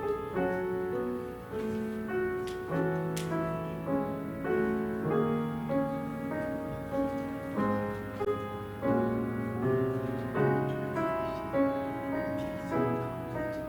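Slow, quiet keyboard music: held chords and a gentle melody, changing every second or two.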